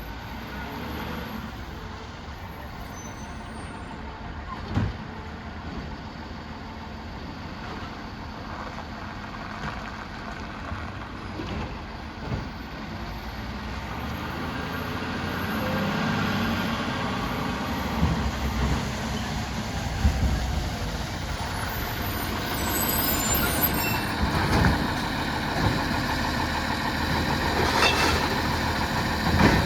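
Garbage truck working: engine running, growing louder in the second half, with several sharp bangs along the way.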